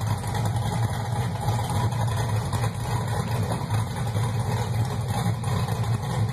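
Chevrolet Camaro's 6.0-litre LS V8, fitted with a big camshaft, idling steadily on its first start-up after the cam install.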